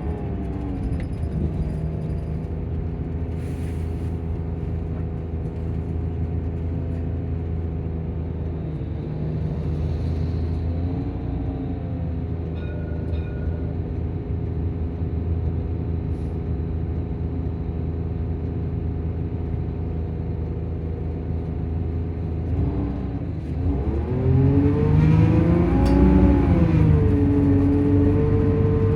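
Volvo coach's engine and cooling fan running steadily. The pitch dips and comes back up about ten seconds in, then rises and grows louder for the last few seconds as the engine picks up speed.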